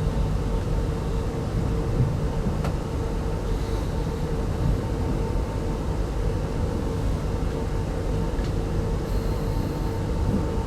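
Steady rumble of a moving passenger train heard from inside an RZ25T soft-seat coach, with a constant hum running under it.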